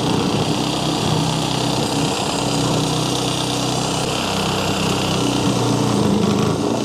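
A power saw running continuously while it cuts through a section of drain pipe, its blade dull.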